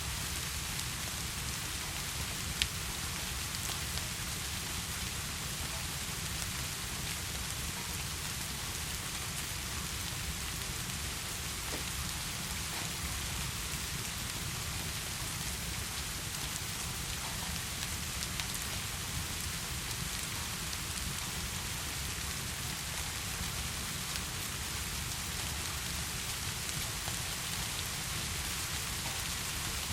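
Heavy rain falling steadily, with a few sharp crackles from a fireplace, the loudest about two and a half seconds in.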